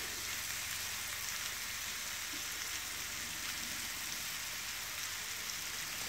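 Diced onions, peppers, mushrooms and tomato sizzling steadily in olive oil in a frying pan, a sauté.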